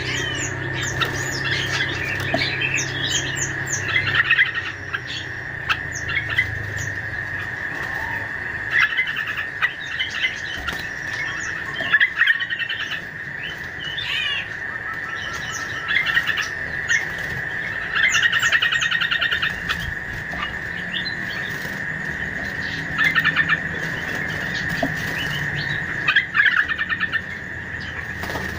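Bird-lure recording of small birds chirping and calling, with several quick rattling trills, over a steady high-pitched drone; made to draw in wild fruit-eating birds.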